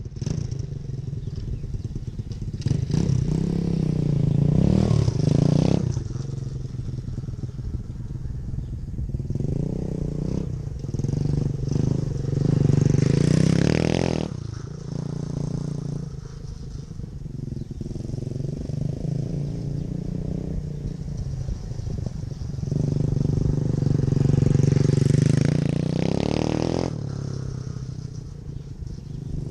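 Dirt bike engine running and revving as the bike is ridden around. It swells louder three times, about four, thirteen and twenty-five seconds in, as the bike revs up or passes close.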